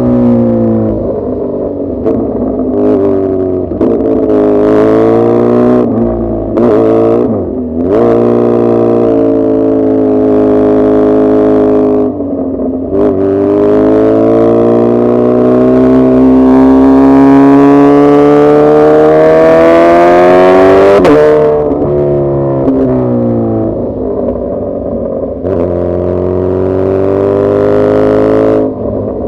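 Suzuki Hayabusa's inline-four engine pulling hard and rising in pitch, dropping back sharply several times as revs fall, then making one long climb that cuts off suddenly about three-quarters of the way through before it builds again.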